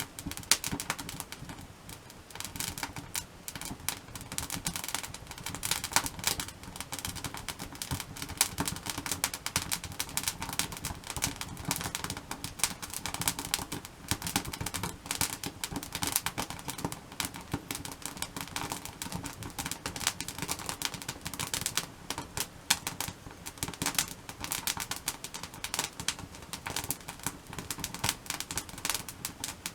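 Wood campfire crackling, with dense, irregular snaps and pops of burning firewood.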